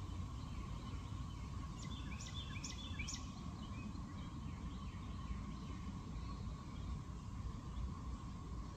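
A bird chirping a quick run of short notes about two seconds in, with fainter chirps later, over a steady low background rumble and a faint steady tone.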